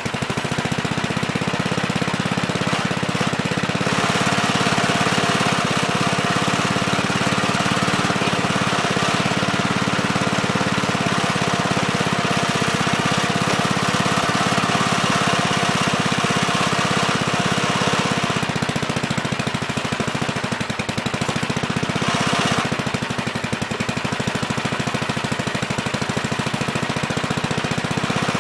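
Gravely Terramite compact backhoe's engine running steadily while digging. It grows louder and harsher for a long stretch in the middle, and again briefly near the end.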